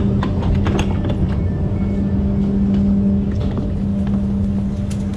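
Train running along the track: a steady hum over a low rumble, with scattered sharp clicks and knocks in the first second and a half and again near the end.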